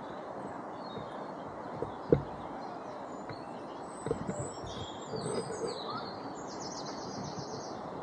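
Small songbirds chirping, with a quick trill about six seconds in, over steady outdoor background noise. A single sharp knock about two seconds in.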